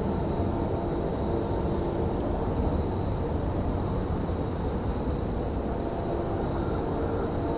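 Railyard ambience: a steady low rumble with a droning hum of idling machinery, and a thin steady high-pitched whine. The hum fades partly away in the middle and comes back near the end.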